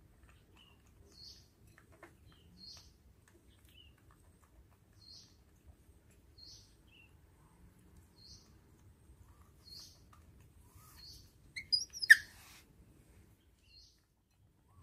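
High, short chirps, like a small bird calling, repeating about every one to two seconds. About twelve seconds in comes a brief, much louder sharp sound.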